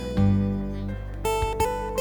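Instrumental plucked-string music, an arrangement for ukulele, acoustic guitar and electric guitar: ringing plucked notes pick out a slow melody over sustained low bass notes, with new notes struck a few times.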